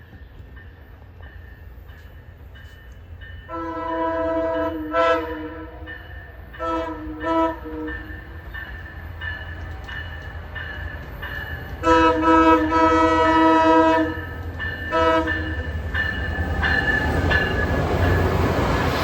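Passenger train locomotive horn, a multi-note chord, sounding a sequence of long and short blasts: a long blast a few seconds in, two shorter ones, another long blast past the middle and a short one after it. A low rumble runs underneath, and the noise of the approaching train swells near the end.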